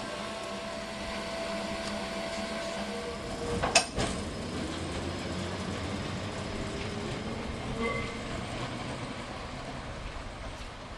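Heritage electric tram running along the track, with a steady rumble and a held whine in the first few seconds; a single sharp knock about four seconds in is the loudest sound.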